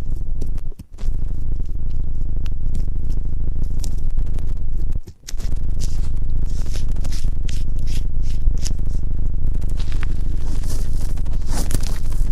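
Close-up scraping and crackling at a microphone's ear, ASMR ear-cleaning sounds, over a steady low rumble of handling noise. The sound cuts out briefly twice, about one and five seconds in.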